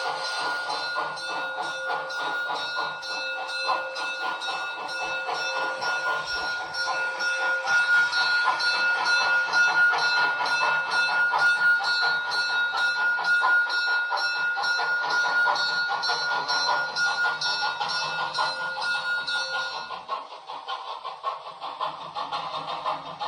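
Sound decoder of a Roco H0-scale BR 56 model steam locomotive playing steam-engine running sounds through its small speaker: a fast, even chuffing beat with steady ringing tones over it. The steady tones stop near the end while the beat goes on.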